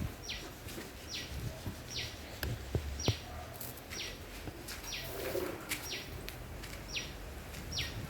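A bird repeating a short, high call that falls sharply in pitch, about once a second, with a few faint knocks in the background.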